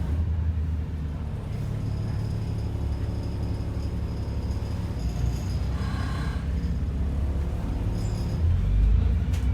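Diesel engine of an ADL Enviro 400 double-decker bus running with a steady low rumble, heard from inside the saloon, and a louder low surge near the end.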